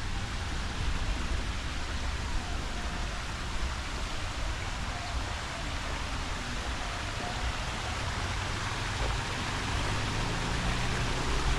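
Steady rush of running water from a stream, with an uneven low rumble underneath.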